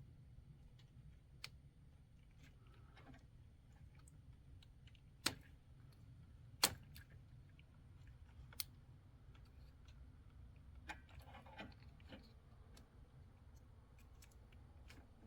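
A few sharp, isolated clicks and light taps of small parts and tools being handled during hand work on the car, over a faint low hum. The two loudest clicks fall about a third and halfway through, with softer rustling taps near the end.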